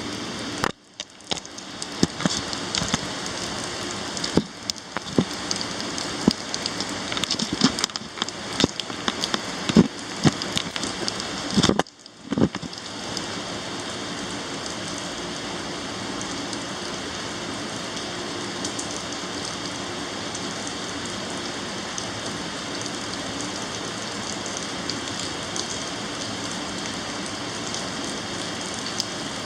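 Heavy thunderstorm rain pouring down. For about the first twelve seconds many loud sharp drop impacts and knocks sound close by, with two brief drops in level. After that the rain settles into a steady, even hiss.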